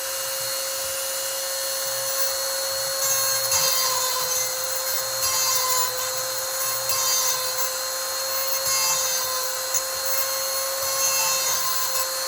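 Electric chainsaw sharpener's grinding wheel running at its top speed with a steady high whine. About five brief grinding passes, starting about three seconds in and coming every couple of seconds, as the wheel is brought down onto the chain's cutter teeth.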